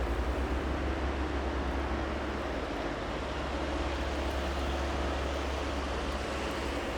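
Steady downtown street ambience: an even hiss over a low rumble of traffic, with a faint steady hum.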